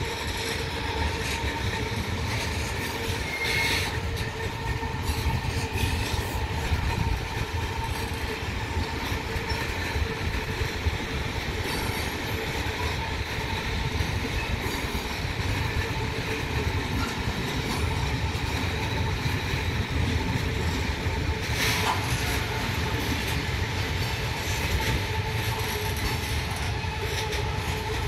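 Freight train of loaded log wagons rolling past: a continuous rumble of steel wheels on the rails with a steady thin whine. A couple of sharp clacks come from the wheels over the rail joints.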